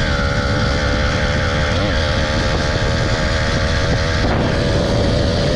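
Small motorbike engine running steadily while being ridden, its pitch wavering slightly, with wind rumbling on the microphone.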